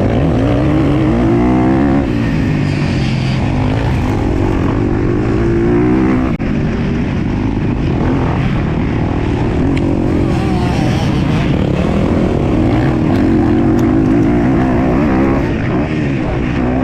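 Motocross dirt bike engine at race pace, its revs rising and falling over and over as the rider accelerates and backs off, with a short sharp drop in sound about six seconds in.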